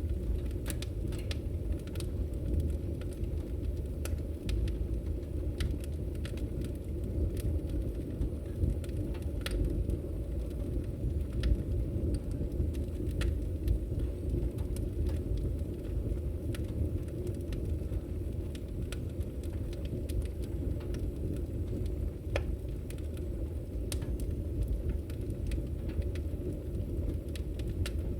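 Wood fire in a fireplace crackling: scattered sharp pops and snaps at irregular intervals over a steady low rumble of the burning fire.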